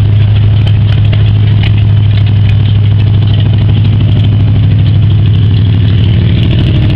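A rat rod's engine idling loudly and steadily close by, with a deep, even exhaust note that does not rise or fall.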